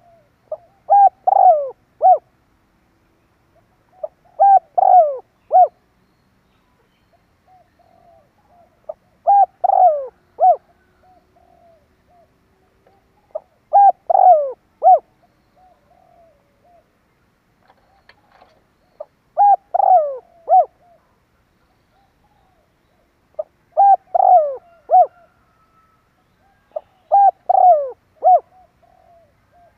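Spotted dove cooing: a short phrase of several mellow coo notes, repeated seven times about every four to five seconds. It is the call used to draw wild spotted doves in to a decoy bird.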